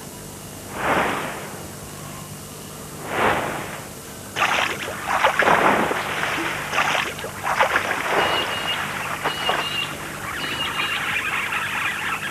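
Water washing in three short swells, then heavy, irregular splashing from about four seconds in as a white-bellied sea eagle struggles with its prey in shallow water and beats its wings to haul itself out.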